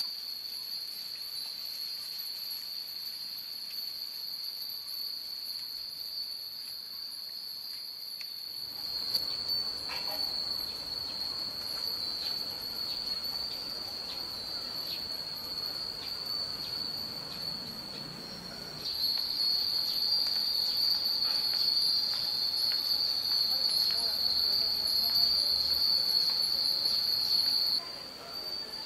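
A steady, high insect drone, joined from about nine seconds in by scattered light clinks of cast-iron Nanbu wind chimes. The drone grows louder about two-thirds of the way through and drops just before the end.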